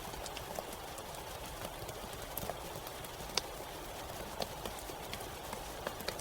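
Steady rain falling in a forest, with single drops tapping close by at irregular moments; the sharpest tap comes about three and a half seconds in.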